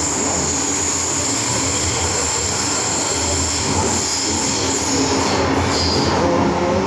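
MTR M-Train EMU running on the Island Line, heard from inside the car: continuous wheel and running noise with a steady high whine. Pitched motor tones shift in pitch near the end.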